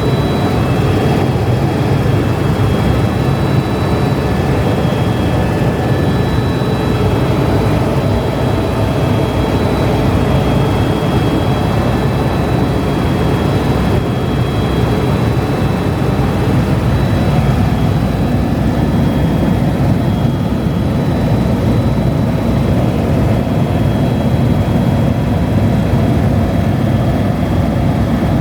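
Helicopter running steadily: a constant rumble of turbine and rotor with a thin, steady high whine over it.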